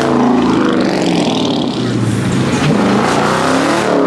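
Car engines revving loudly through their exhausts, the pitch climbing and dropping several times.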